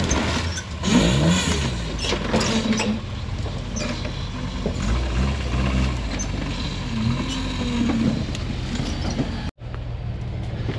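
Off-road rig's engine revving up and down as it crawls over rock, with creaks and knocks from the chassis and suspension under load. The sound drops out for a moment near the end.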